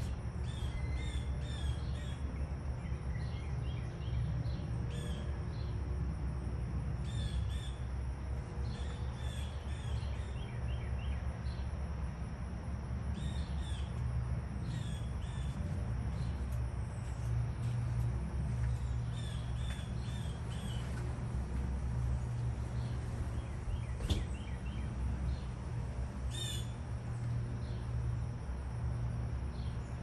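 Songbirds chirping in short, scattered calls, over a steady low rumble. One sharp click late on.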